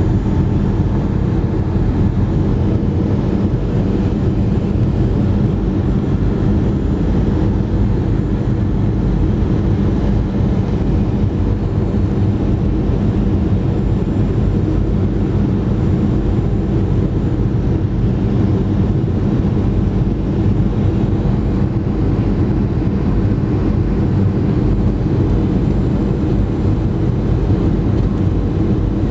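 Cabin noise inside a Boeing 737-300 in flight: its CFM56-3 turbofan engines and the airflow make a loud, steady, deep rumble with a faint steady whine over it.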